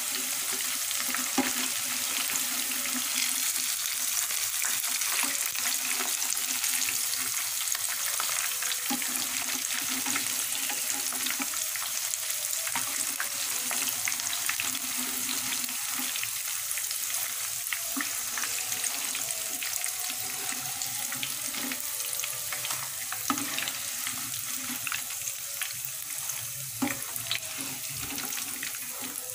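Battered squid pieces deep-frying in hot oil, a steady sizzle full of small crackles, while a slotted spoon stirs through the oil and lifts the cooked pieces out.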